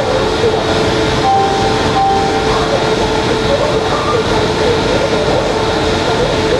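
WAP-7 electric locomotive standing with its electrics powered, giving a steady hum with a clear high tone over a constant rushing background.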